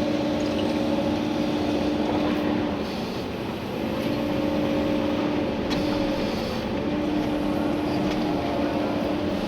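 Komatsu PC290-11 excavator's diesel engine and hydraulics running under working load, heard from inside the cab. The steady whine drops out a little before the middle and returns about a second later.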